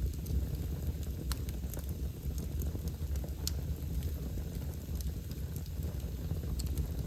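Wood fire crackling in a fireplace: scattered sharp pops and snaps from the burning logs over a steady low rumble.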